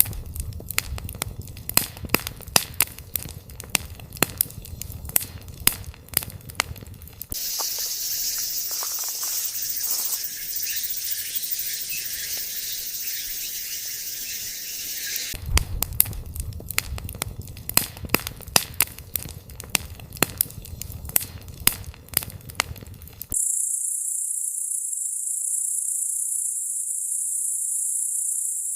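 Wood campfire crackling with many sharp pops. About seven seconds in it gives way to a steady high hiss, the crackling returns about eight seconds later, and near the end only a thin, very high hiss remains.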